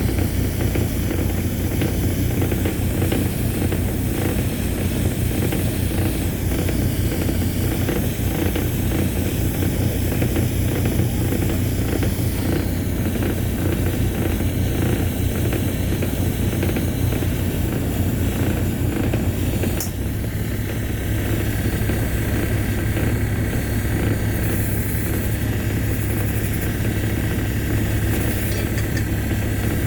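Steady deep rumble of the passenger ship's diesel engines running, shifting slightly about twenty seconds in.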